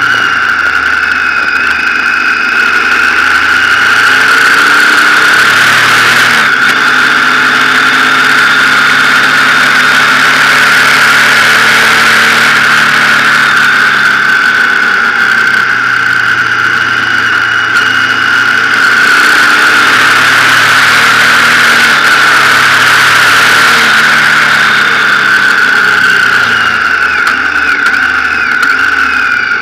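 Motorcycle engine running on the road, its note rising and falling several times with the throttle and gear changes, over a steady high hum.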